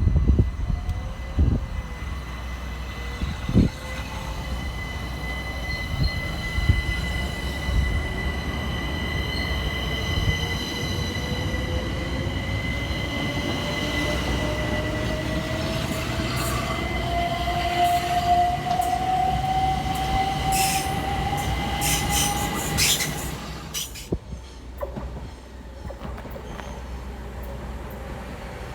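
Electric passenger train running on the line with a steady rumble and a high-pitched wheel squeal. A whine rises slowly in pitch through the middle. Near the end a run of sharp clicks comes before the sound drops away about 24 seconds in.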